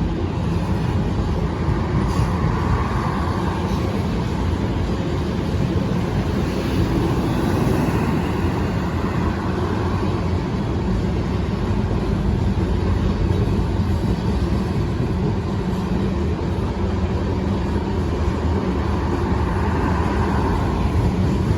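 Mixed freight train rolling past: a steady, loud rumble of wheels on rail with continuous clatter.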